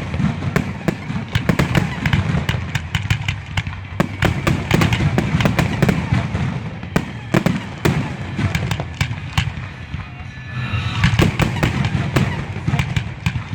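Fireworks display finale: a dense, unbroken barrage of sharp bangs and crackles, many per second, over a steady low rumble. The crackling thickens about three-quarters of the way through.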